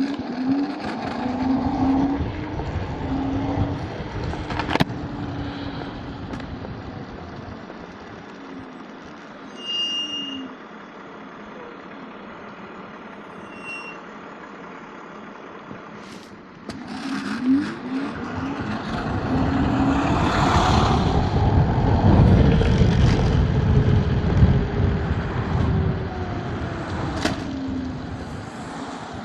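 Road traffic heard from a moving electric scooter: motor vehicles passing, the loudest and longest about twenty seconds in, with a few short higher tones around ten seconds.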